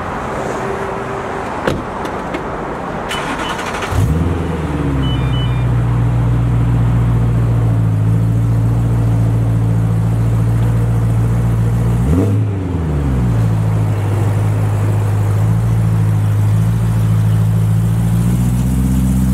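A car door shuts and a few short chimes sound, then the E90 BMW M3's V8 starts about four seconds in with a flare of revs and settles into a steady, deep idle through its custom exhaust with cutouts. About twelve seconds in there is one quick throttle blip, then it idles again.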